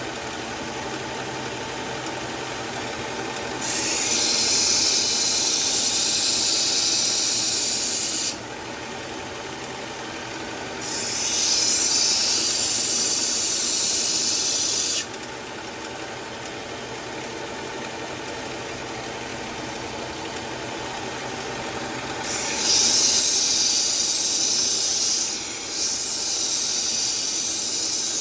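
Powered knife sharpener running steadily, with four grinding passes of a knife blade against the abrasive, each a few seconds of loud high hiss; the last two come nearly back to back.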